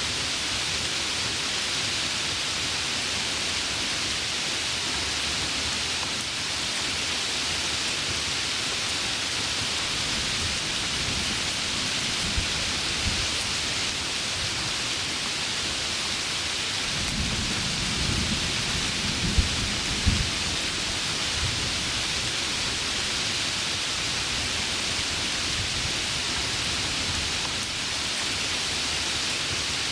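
Heavy rain falling steadily, with a roll of thunder building past the middle and rumbling loudest for a few seconds, with a couple of sharp cracks within it.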